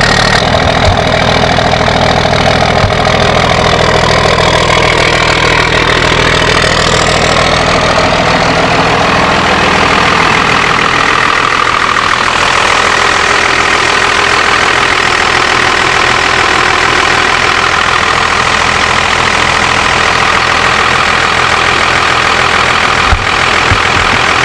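Diesel pickup engine idling steadily after a cold start. Its low tones thin out about halfway through.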